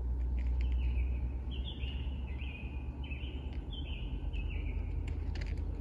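A songbird singing a run of short, slurred notes that slide downward, repeated about every two-thirds of a second, over a low steady rumble.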